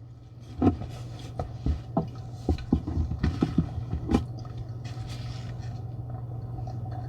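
Irregular clicks, taps and scrapes of food and shells being handled and eaten at a table, over a steady low hum.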